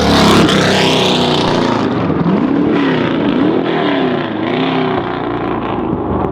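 Racing car engine passing at speed, its note sweeping down as it goes by at the start, then rising and falling several times as the engine revs up and down.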